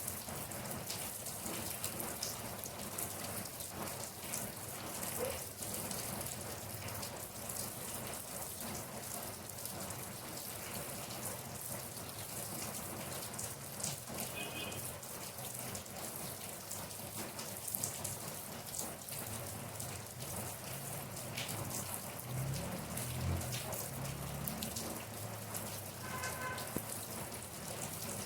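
Steady rain falling on a surface, with many single drops pattering sharply over the hiss. A low rumble swells briefly about three quarters of the way through.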